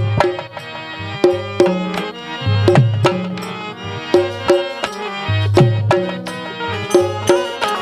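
Instrumental interlude of Bundeli Rai folk music: hand drums play a driving rhythm of sharp slaps and deep booming strokes that slide down in pitch, over a held, repeating melody.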